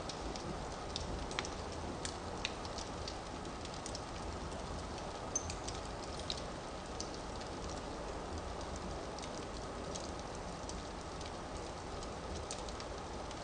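Firewood burning in a fireplace: a steady low hiss and rumble of the flames with scattered sharp crackles and pops, a few louder pops in the first half.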